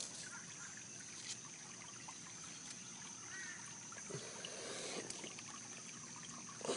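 Water trickling and running in a rain-swollen ditch, with a thin steady high-pitched tone over it and a few faint clicks.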